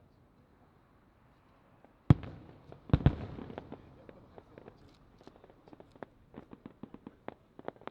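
Aerial firework shells bursting: two loud booms about two and three seconds in, followed by a growing run of sharp crackling pops.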